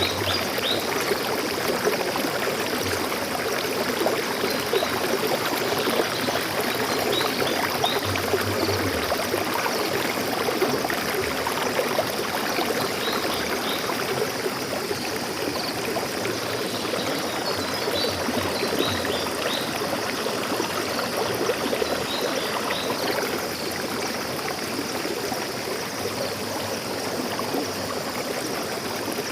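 Stream water flowing steadily, with a few faint high bird chirps now and then.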